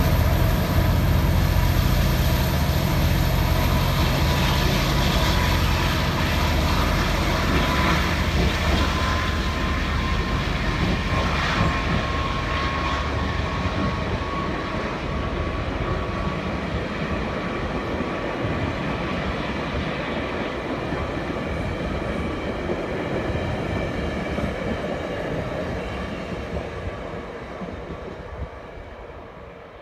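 GO Transit bilevel commuter train running past and pulling away, a heavy rumble of wheels on rails that fades steadily as the train recedes. A thin whine, rising slightly in pitch, rides over it for several seconds in the middle.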